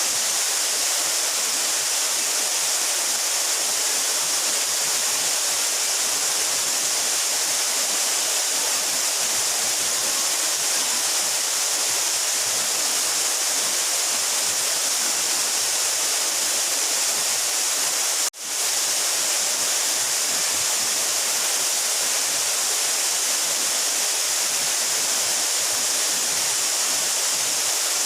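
A 12-metre mountain waterfall rushing: a steady, even roar of falling water with no change in strength. Roughly two-thirds of the way through, the sound cuts out for a split second and then returns.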